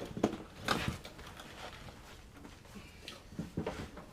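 Scattered light knocks, clatter and rustling as tools and parts are handled, with a cluster of quick knocks about three and a half seconds in.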